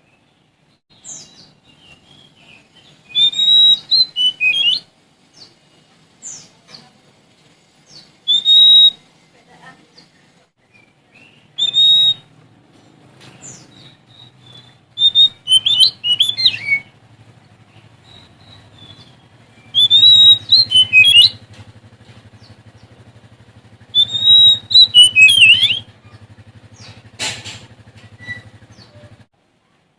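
Oriental magpie-robin (Sumatran kacer) singing: loud bursts of clear whistled and gliding notes, each lasting a second or two, repeated about seven times with short pauses between. A faint low hum runs beneath the second half.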